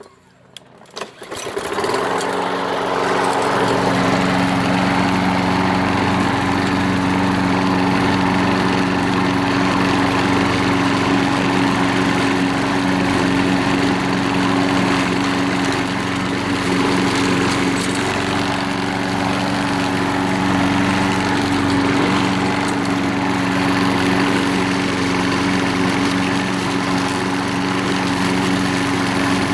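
Troy-Bilt front-wheel-drive walk-behind mower's small engine being cold-started: a brief pull-start effort, then it catches about two seconds in and runs steadily at an even pitch.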